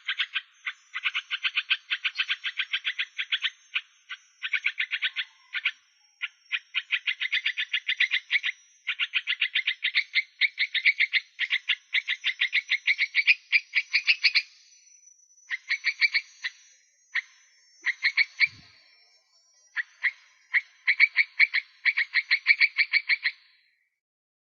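An animal calling in rapid pulsed trains, about eight to ten pulses a second, in runs of a few seconds broken by short pauses, over a faint thin high note.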